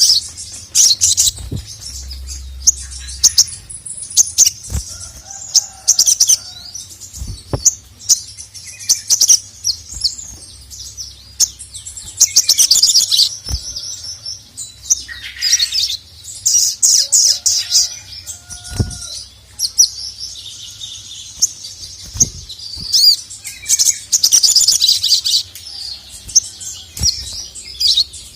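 Sogon (sogok ontong, little spiderhunter) singing in its 'gacor' style: repeated bouts of rapid, high-pitched chattering, each a second or few long, separated by short pauses. Scattered sharp clicks come between the bouts.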